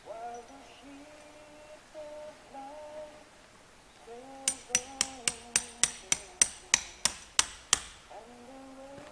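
A hammer striking a tent peg about a dozen times in quick succession, roughly three blows a second, each a sharp metallic strike.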